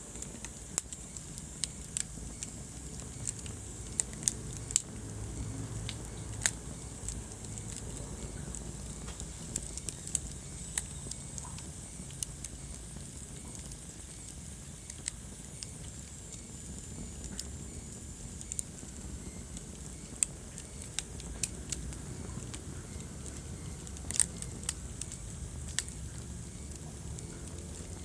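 Wood fire burning in a fireplace: a low steady rumble of flames with irregular sharp crackles and pops, a few louder pops now and then.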